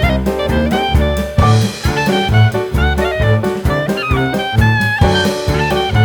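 Live band music: a lead melody line with bending notes over a steady pulsing bass and a regular drum beat.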